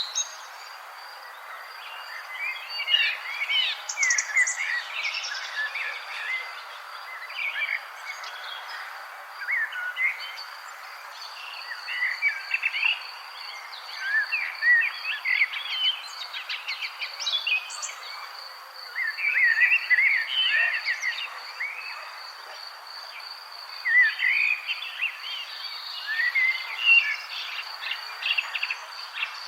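Songbirds chirping and singing in short bursts of phrases every few seconds over a steady, high-pitched insect trill.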